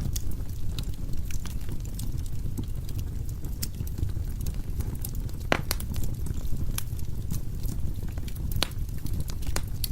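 Wood fire burning in a fireplace: a steady low rumble of flames with scattered sharp crackles and pops of the burning logs, the loudest about halfway through and another a few seconds later.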